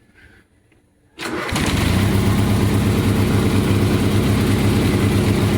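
Mud-mower lawn tractor engine starting about a second in and settling straight into a steady, even run.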